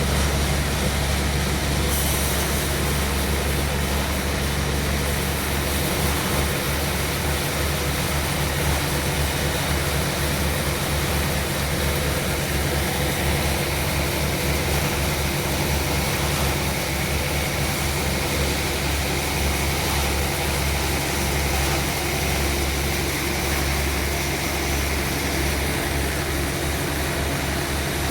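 Sawmill machinery running steadily, a deep engine hum with a continuous mechanical noise over it.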